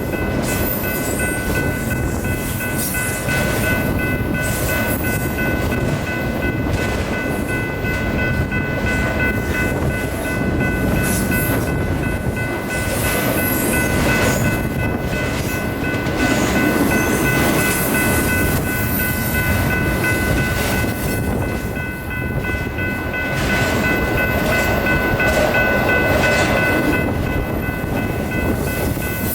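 A train rolling past: a steady rumble and rattle of wheels on the track, with a high, steady ringing tone held throughout.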